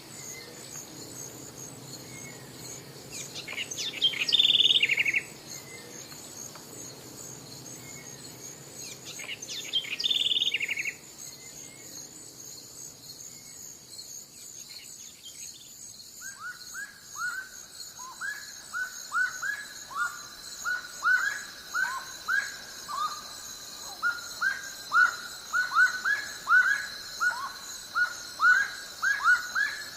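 Wild birds calling over a steady high-pitched insect drone. Two loud trilled calls come in the first half, then from about halfway a long series of short, falling whistled notes repeats several times a second.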